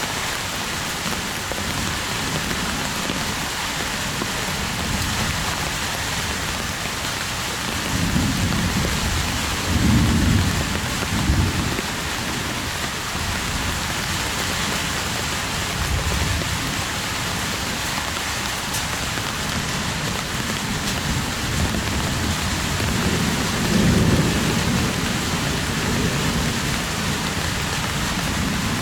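Heavy rain falling steadily, with low rolls of thunder about eight seconds in and again near the end.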